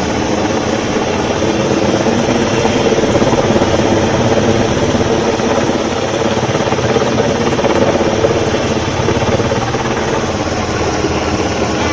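Sikorsky UH-60 Black Hawk helicopter working close by, its rotor and engines making a loud, steady drone.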